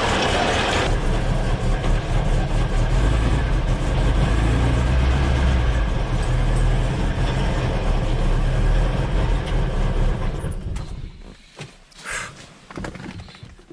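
A 1969 Volvo 142's four-cylinder engine running steadily, then shut off about ten and a half seconds in, after which only a few faint clicks and knocks remain.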